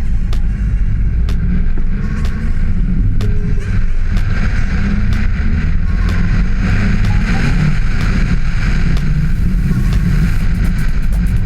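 Audi turbo rally car driving on lake ice, its engine running steadily, with many scattered sharp clicks and knocks.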